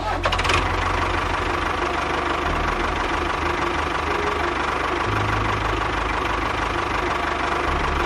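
Tractor engine running steadily, a low, rapid chugging rumble.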